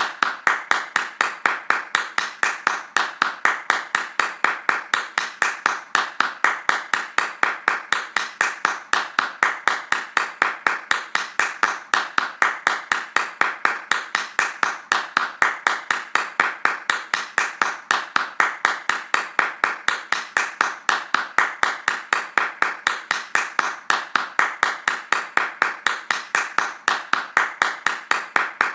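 Hands clapping fast in a steady, even rhythm of sharp claps, without a break.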